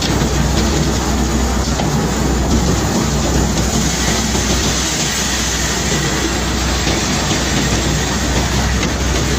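Bulk-cargo unloading machinery running steadily: a continuous low hum under a dense, even hiss of loose material, with no separate knocks.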